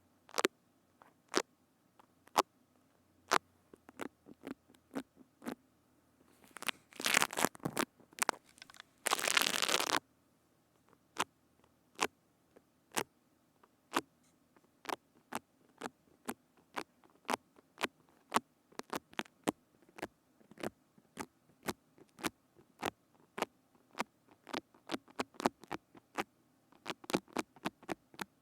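Close-miked ASMR trigger sounds: a long run of sharp single clicks or taps, about one a second at first and quickening to about two a second. About seven seconds in there is a cluster of crackling, then about a second of steady crackly rustle.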